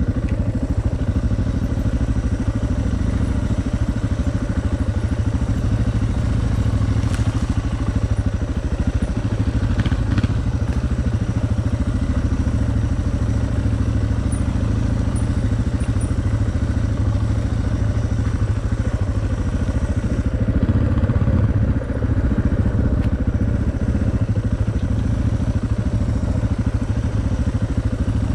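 Suzuki DR650's single-cylinder four-stroke engine running under way on a dirt track. A couple of knocks and rattles come from the bike over the rough ground. The engine note rises briefly and dips about three-quarters of the way in.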